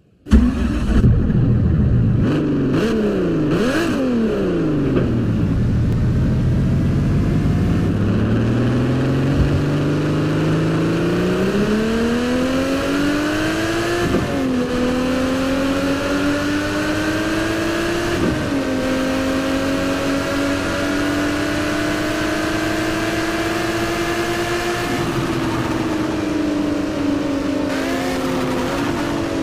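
1992 Ferrari 512 TR's 4.9-litre flat-twelve engine. It is blipped twice, with the pitch rising and falling quickly, then pulls hard with a long rising note. Two upshifts drop the pitch about halfway through and again a few seconds later, after which it holds a fairly steady note and is blipped lightly near the end.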